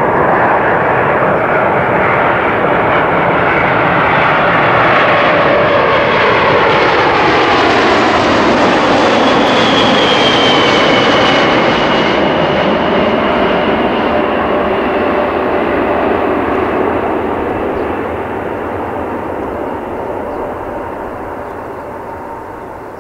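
Boeing 747-400's Rolls-Royce RB211 jet engines passing close by: a loud roar with whining tones that slide down in pitch as it goes past, then fading away over the last several seconds.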